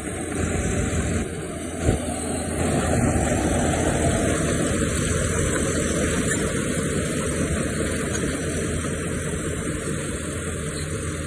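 Heavy diesel engine of earthmoving machinery running steadily, with a single sharp knock about two seconds in.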